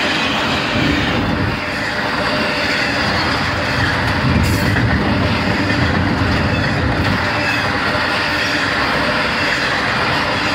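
Norfolk Southern double-stack intermodal well cars rolling past close by at speed: a steady, loud noise of steel wheels on the rails and rattling cars, with one sharp clack about four and a half seconds in.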